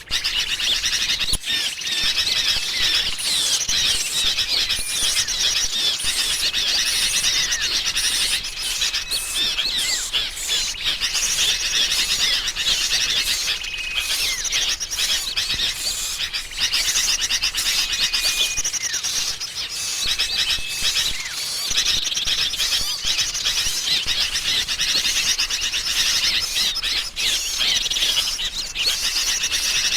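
Bird-lure recording of agitated, noisy sooty-headed bulbuls mixed with other small songbirds: a dense, continuous chorus of chattering chirps and trills, with short level whistles every few seconds. A track made to draw small birds in for trapping.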